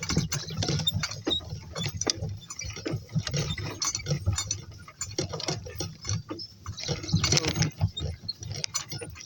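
Irregular metallic clinking and rattling of the donkeys' harness and gear as the team walks on, with scattered knocks.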